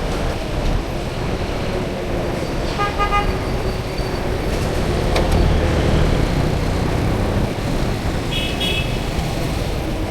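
Road traffic running past, swelling around the middle, with a vehicle horn honking about three seconds in and a shorter, higher-pitched horn beeping near the end.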